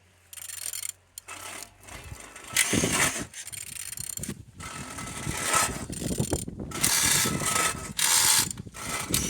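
Used FE57ZZA engine being turned over by hand, its internals and pulley rotating with irregular clicking and mechanical scraping. It turns over freely, a sign that the engine is not seized.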